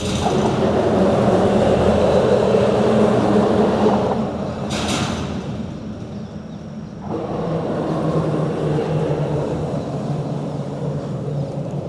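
Road traffic passing on a bridge: a steady rumble of tyre noise and engine hum that swells as one vehicle goes by, eases off with a brief hiss about five seconds in, then swells again as another passes about seven seconds in.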